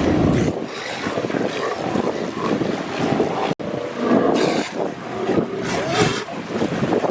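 Sea lions calling in a colony, overlapping pitched calls over wind and water noise, with the sound breaking off for an instant about halfway through.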